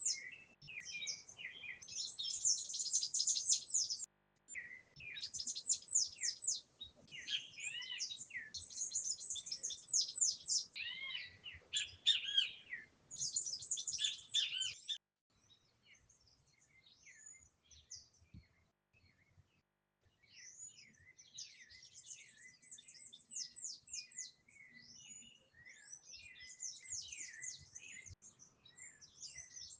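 Small birds chirping and trilling in fast, high series. The chirping breaks off abruptly about fifteen seconds in, then comes back as softer, sparser chirps.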